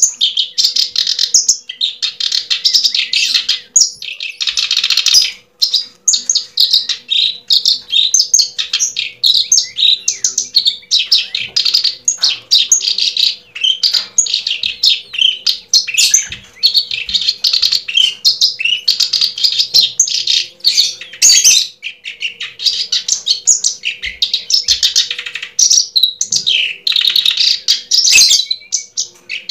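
Small birds chirping and twittering in quick, overlapping trills almost without pause, over a faint steady hum.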